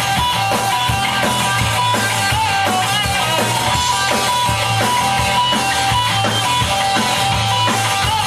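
A live rock band plays an instrumental passage: distorted electric guitar over a steady drum-kit beat, with no vocals.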